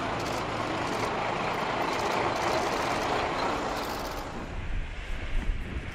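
Diesel train pulling out of the station with a steady rumble that swells and then fades. About four seconds in it gives way to a low rumble with wind buffeting the microphone.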